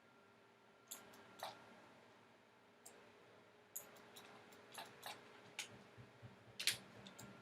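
Faint computer mouse clicks, a dozen or so short sharp clicks at irregular intervals, a little louder near the end.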